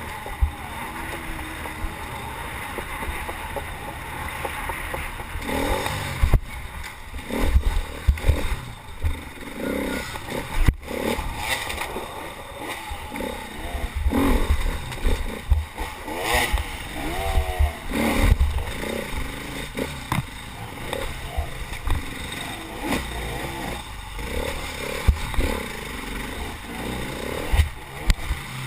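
A small racing vehicle's engine running through a timed lap. Its pitch rises and falls in places, over a constant low rumble with rattling and knocks.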